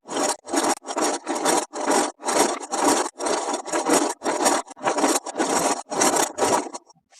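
Quick, even back-and-forth rubbing strokes on a hard surface, about two and a half a second, stopping just before the end.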